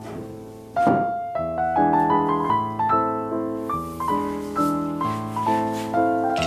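Background piano music: a flowing run of single struck notes, each dying away, with a brief swish a little under a second in.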